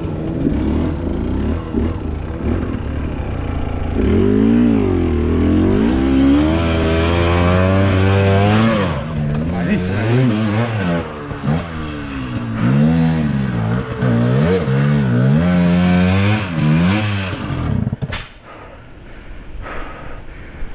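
Enduro dirt bike engine revving hard in repeated rising and falling bursts on a trail, then dropping away suddenly with a few sharp knocks near the end.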